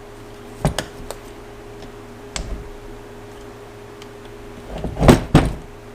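Small hand tools clicking and knocking against metal while screws on a motorcycle starter are being tightened. There are a few light clicks in the first half, then a louder cluster of knocks about five seconds in, over a faint steady hum.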